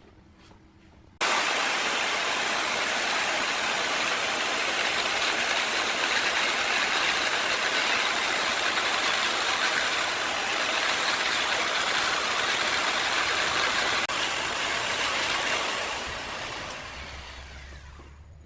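A woodworking power tool running steadily: a loud even hiss with a constant high whine. It starts abruptly about a second in and fades out near the end.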